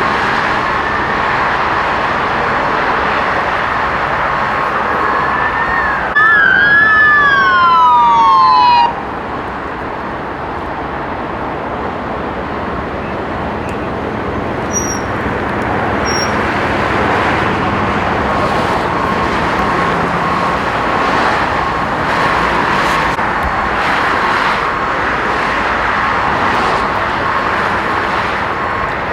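Steady din of running vehicles and road noise. About six seconds in, a police siren sweeps down in pitch for about three seconds and then cuts off. Two short high beeps come near the middle.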